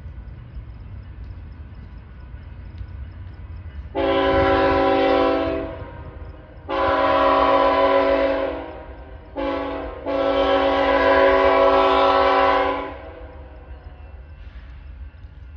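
BNSF locomotive's multi-chime air horn sounding four blasts, long, long, short, long: the standard signal for a grade crossing. A steady low rumble lies under it.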